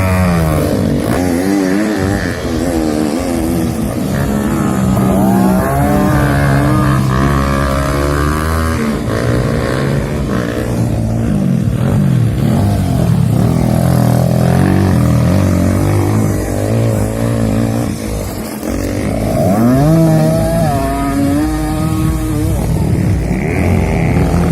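Motocross bikes racing, several engines at once, their pitch climbing and dropping over and over as the riders open and shut the throttle.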